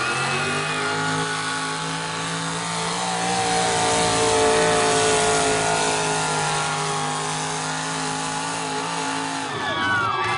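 Pulling vehicle's engine at full throttle during a truck and tractor pull run. Its pitch holds fairly steady with slight rises and dips, then it cuts off about nine and a half seconds in, and crowd cheering starts.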